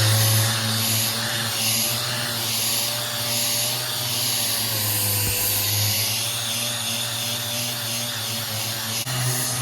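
Handheld electric sanding tool running steadily on the steel cab roof of a WWII GMC CCKW truck, taking off surface rust. Its motor tone wavers and sags briefly about halfway through.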